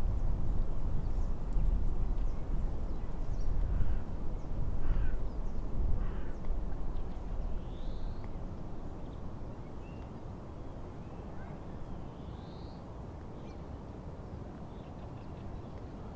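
Birds calling with short chirps and swooping calls at a lakeshore, over a low rumbling noise that is loud at first and eases off after about eight seconds.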